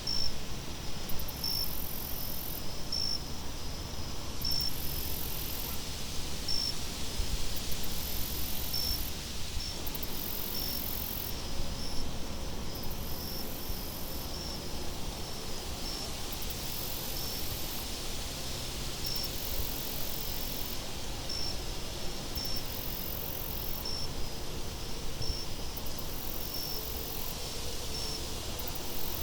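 Crickets chirping, short high chirps repeating every second or two, over a steady low rumble of wind.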